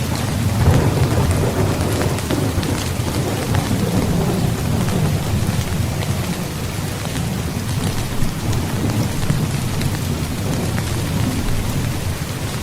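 Steady heavy rain with a deep rolling rumble of thunder, swelling about a second in and again a few seconds later.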